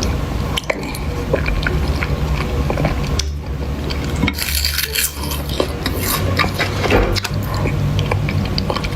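Eating utensils clinking and scraping against dishes, with stirring and rubbing of food, many short clicks throughout over a low steady hum.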